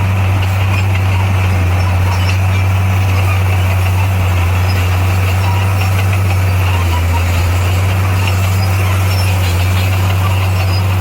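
Heavy-equipment diesel engine running steadily with a deep, constant hum.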